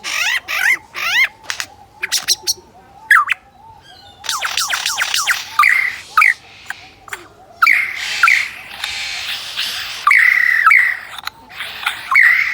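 Lyrebird singing a run of sharp clicks and rattles with short falling whistled notes, its mimicry of a camera's shutter.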